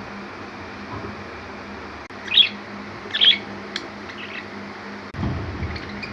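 Budgies giving short chirps, a quick cluster of them around the middle, over a steady low hum. A low rumbling noise starts abruptly near the end.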